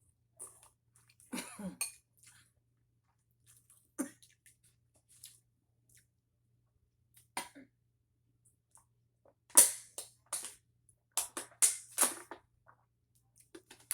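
Close-miked eating sounds of a person eating noodles in a very spicy sauce: scattered chewing and mouth noises, then a run of sharp, louder bursts about two-thirds of the way through.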